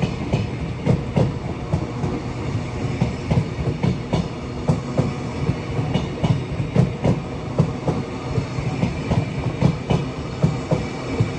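Caledonian Sleeper train running past close by: a steady rumble of wheels on rail broken by a rapid, uneven run of clacks, a few each second, as the wheels cross rail joints.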